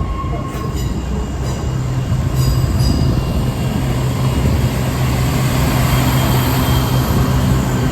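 A diesel passenger train running over a street level crossing: a steady low engine drone with wheel and rail noise, getting louder from about a second and a half in.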